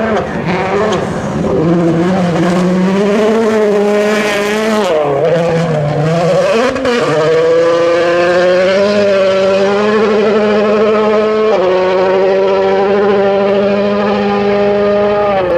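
Rally car engine running hard under load, its note rising and falling and stepping in pitch several times as the car works through gear changes.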